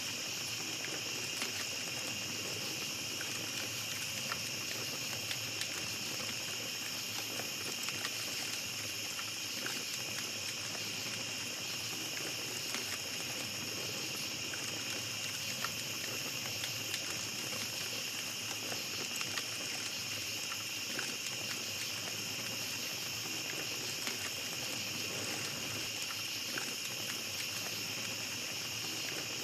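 Small campfire crackling, with scattered sharp pops, over a steady high drone of night insects.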